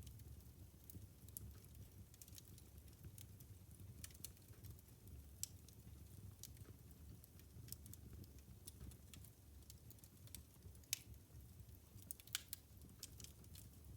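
Wood fire burning in a fireplace, crackling: scattered sharp pops and snaps over a soft low rumble of the flames, with the loudest pops about two-thirds and near the end.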